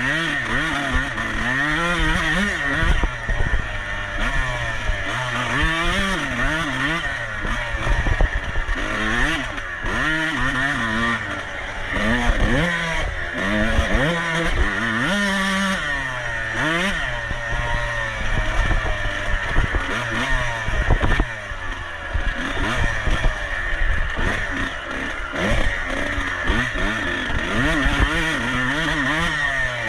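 Off-road motorcycle engine revving hard and backing off over and over, its pitch climbing and dropping every second or two as the rider accelerates, shifts and slows through the course.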